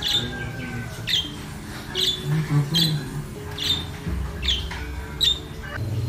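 A bird giving a short, sharp call over and over, about seven times, a little under once a second.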